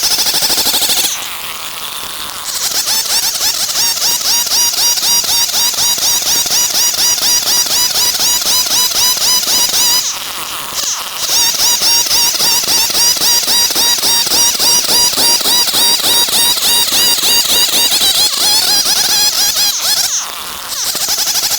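Stihl 070 two-stroke chainsaw running at full throttle, cutting through wood with a fast, even pulsing. It drops back briefly about a second in, about ten seconds in and near the end.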